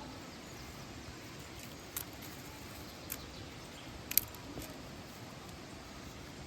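Steady rush of flowing water from a waterfall, with a few sharp clicks over it, the loudest just past four seconds in.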